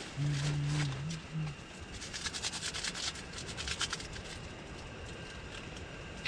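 A brief low hum, then about two seconds of rapid crinkling and crackling, like packets or plastic being handled, over steady background noise.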